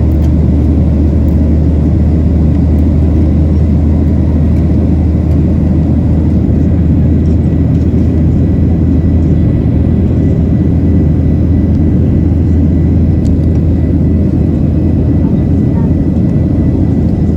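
Airliner cabin noise in flight: a steady low rumble of the jet engines and airflow, with a faint steady high tone above it.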